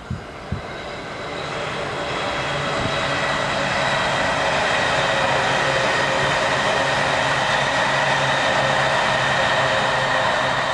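Musashino Line electric commuter train passing close by. Its rolling noise with a steady whine builds over the first few seconds, then holds loud and even.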